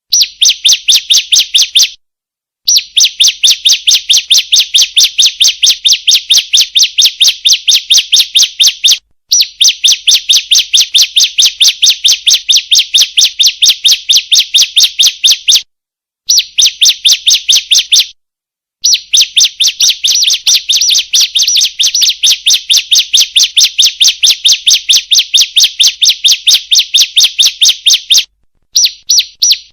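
Female bar-winged prinia (ciblek) calling: a fast string of sharp, high chirps, about six a second, in runs of a few seconds broken by short pauses. This is a lure call (pancingan) used to prompt ciblek to sing.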